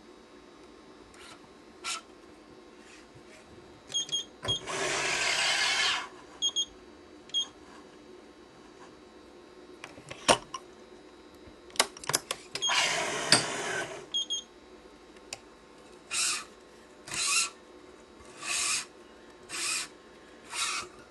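Badminton racket being strung: the cross string is drawn through the main strings in two long zipping pulls, then five shorter ones near the end, with sharp clicks of the machine's clamps and tools in between.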